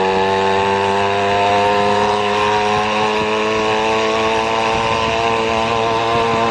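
An engine running steadily, a constant droning hum with only slight shifts in pitch.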